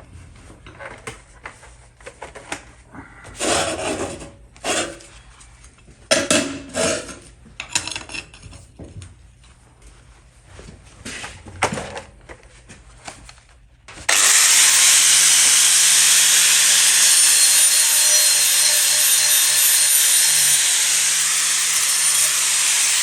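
Scattered knocks and scrapes of metal being handled, then about fourteen seconds in an angle grinder with a linishing disc starts and grinds the metal tube steadily, loud and hissing.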